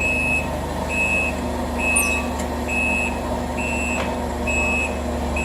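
Forklift reversing alarm beeping about once a second, a steady high tone, over the low hum of the forklift's engine running.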